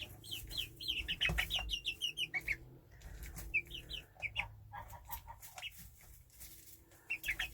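Young chickens peeping in quick runs of short, high chirps, thinning out in the middle and picking up again near the end, with a few sharp taps among them.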